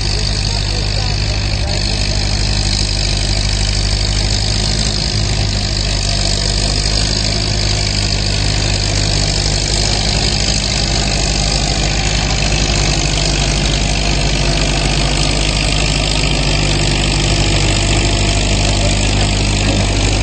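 Farm tractor engine running loud at a steady speed, its pitch holding nearly constant throughout.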